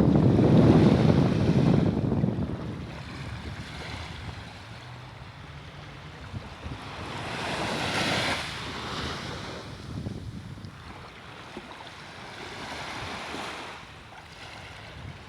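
Sea waves washing in and out, with wind rumbling on the microphone. The loudest, deepest surge comes in the first two seconds, with further washes about eight and thirteen seconds in.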